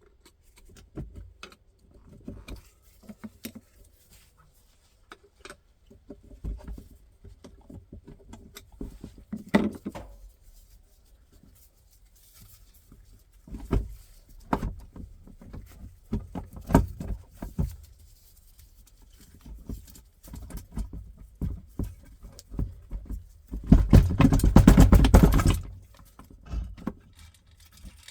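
Hand tools and metal engine parts being handled during the teardown of a small 125 cc motorcycle engine: scattered knocks, clicks and clatter, with a louder noisy stretch lasting about two seconds near the end.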